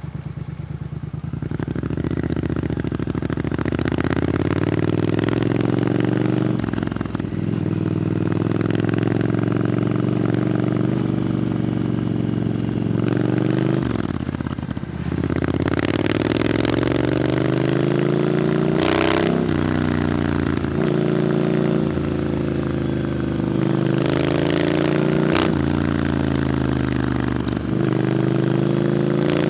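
Triumph Scrambler 900's parallel-twin engine through an Arrow exhaust, under way and pulling through the gears. The pitch climbs steadily over several seconds, then drops sharply at each shift, about five times over.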